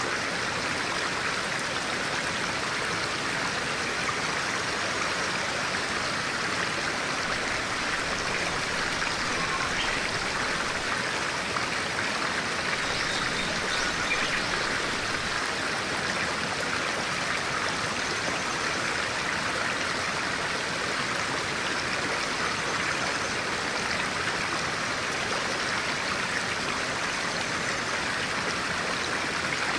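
A clear-water stream rushing and babbling steadily, with faint birdsong now and then.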